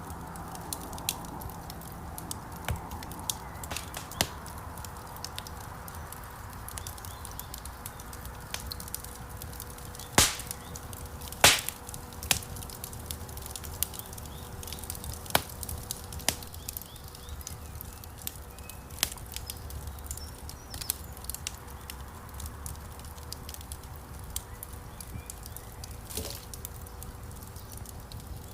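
Wood fire crackling in a stone fireplace: irregular sharp snaps and pops over a steady low rumble of flames, with two louder pops near the middle.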